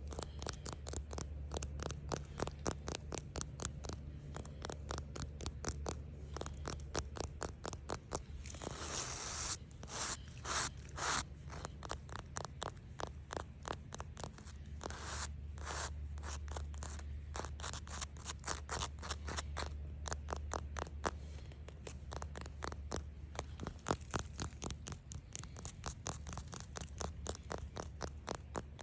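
Rapid scratching, several strokes a second, with a few louder raspy stretches about a third and about half way in, over a steady low hum.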